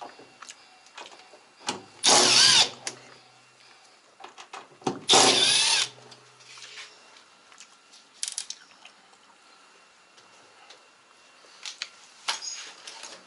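A power drill-driver runs in two short bursts, about two and five seconds in, backing out screws. Small clicks and knocks of handling parts come between the bursts.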